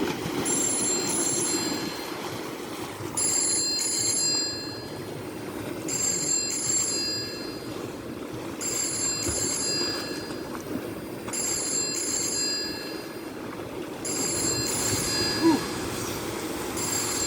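Caspian Sea waves washing onto the shore, with a high ringing chirp that repeats about every two and a half seconds.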